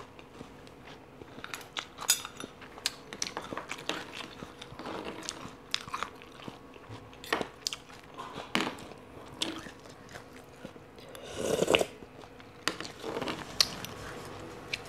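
Close-up chewing and crunching of a mouthful of spicy papaya salad, with sharp, irregular crunches throughout and one louder, longer spell about eleven and a half seconds in.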